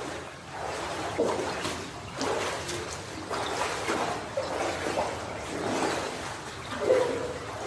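Footsteps wading through shallow water, splashing and sloshing with each stride.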